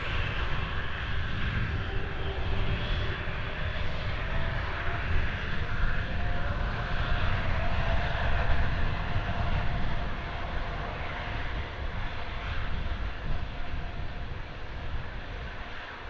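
Boeing 747 jet engines running as the four-engined airliner passes: a deep rumble with a faint steady whine, growing to its loudest about halfway through and then easing off.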